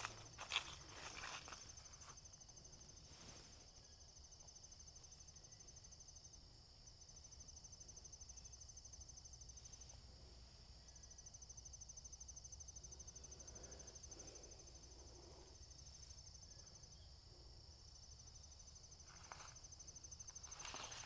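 Insects trilling: a faint, steady, high, fast-pulsing chirr that breaks off briefly twice. A few footsteps at the start and again near the end.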